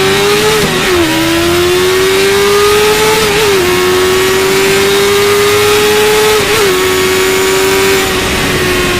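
Yamaha FZ6's 600 cc inline-four engine pulling hard at high revs under acceleration, its pitch climbing slowly. It shifts up quickly about a second in, again at three and a half seconds and at six and a half seconds, then the throttle eases slightly near the end.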